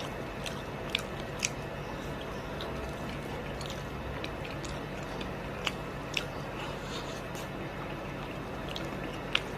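Close-up sounds of a person eating beef oxtail soup: wet chewing over a steady background, with a few short sharp clicks scattered through.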